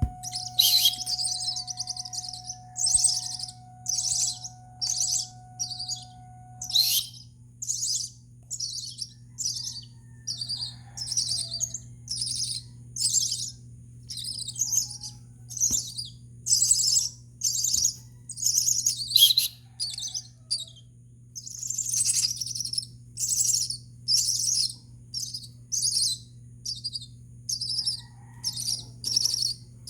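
A two-week-old hand-fed myna chick calling over and over, a bit more than one short, harsh call a second, the kind of call a nestling makes when begging for food.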